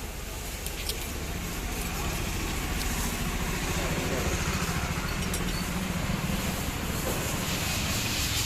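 Maruti Suzuki petrol car engine running steadily, growing a little louder over the first couple of seconds.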